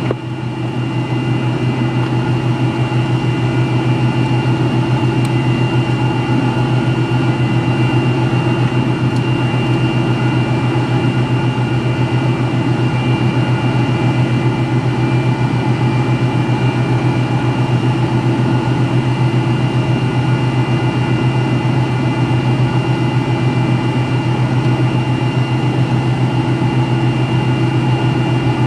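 Steady drone of an MD-83's tail-mounted Pratt & Whitney JT8D jet engines running at low power, heard inside the cabin near the rear. A strong low hum carries several thin, steady high tones, with no change in level.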